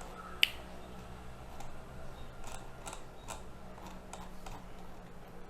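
A single sharp click about half a second in, then a few fainter clicks and taps, over a low steady hum.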